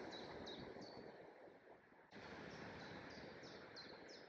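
A songbird repeating short, high, downward-slurred chirps, about three a second, over a soft steady background rush of outdoor air and foliage. The chirping pauses a little after a second in and starts again about two seconds in.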